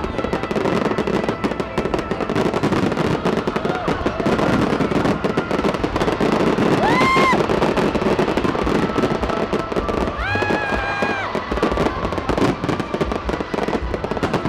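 New Year's Eve aerial fireworks going off continuously, a dense crackling of bursts and pops with crowd noise underneath. Two long drawn-out cries from the crowd stand out, about halfway through and again a few seconds later.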